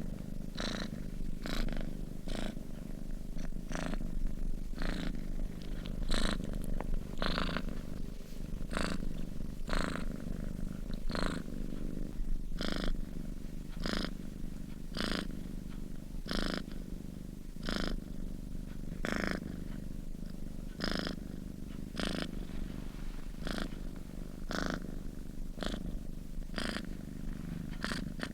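Domestic cat purring in its sleep: a steady low purr with a breathy swell repeating roughly once a second.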